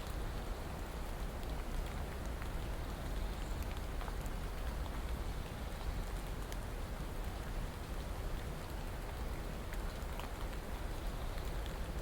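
Steady rainfall, an even hiss with many small scattered drop ticks.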